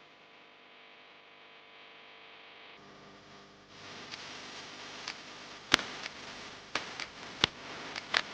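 A faint low hum, then from about four seconds in a steady hiss with about six sharp clicks, the loudest just under six seconds in.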